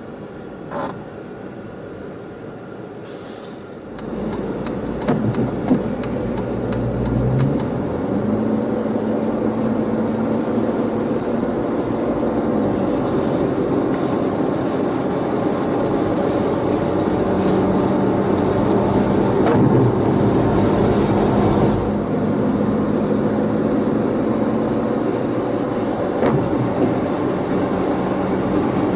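Jeep Wrangler driving, with engine and road noise. It grows louder about four seconds in, and a quick run of clicks follows. After that comes a steady engine drone that shifts pitch a few times.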